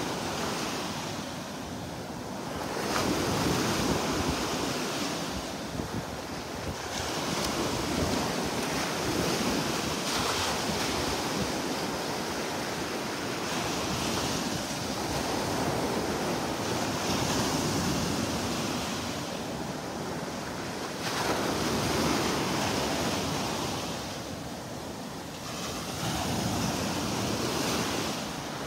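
Gulf surf washing in, with wind on the microphone; the rushing noise swells and eases every few seconds.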